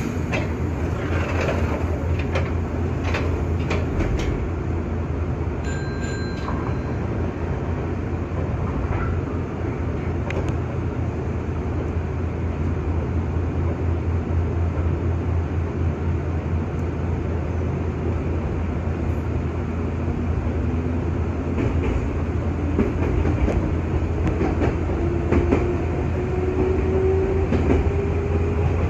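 Nankai 6000 series stainless-steel electric commuter train running, heard from inside the car: a steady rumble with wheels clicking over rail joints. A whine rises steadily in pitch through the last third.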